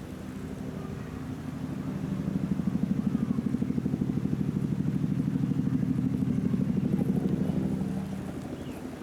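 An engine running with a fast, even pulse, growing louder from about two seconds in and fading near the end as it passes by.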